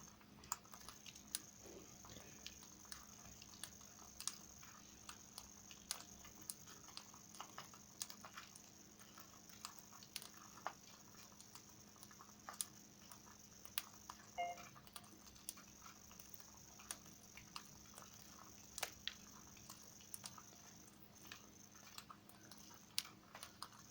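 Parrots eating, with small irregular crunches and clicks of beaks working food. A brief faint chirp comes about midway.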